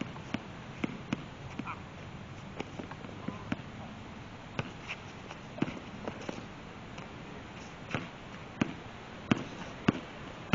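A basketball bouncing on a hard court: scattered sharp thuds, settling into a steady dribble of about one bounce every two-thirds of a second near the end.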